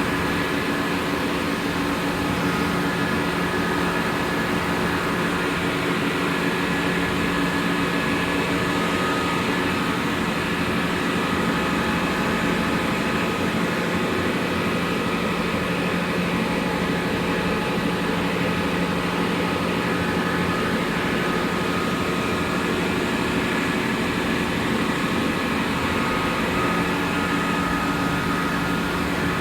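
Steady drone of running machinery in a tugboat's engine room, with several steady hums layered over a broad noise.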